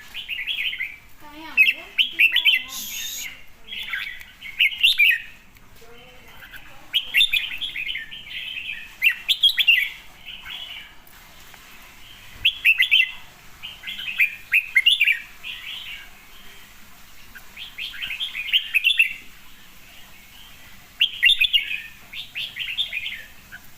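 Red-whiskered bulbul singing short, bright, warbling phrases of a second or two, repeated every few seconds with brief pauses between them.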